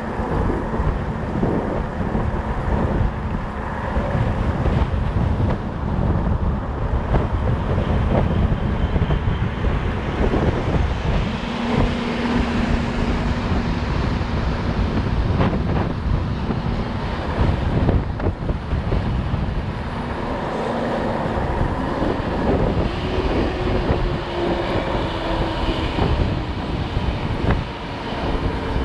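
Wind buffeting the microphone on a moving fat bike, with the rumble of its 4.4-inch Schwalbe Jumbo Jim tyres rolling underneath. It runs steadily, with a faint hum coming and going.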